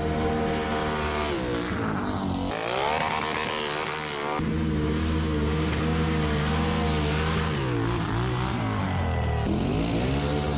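Off-road vehicle engines revving hard, pitch swinging up and down. The sound changes abruptly about two and a half seconds in and again about two seconds later.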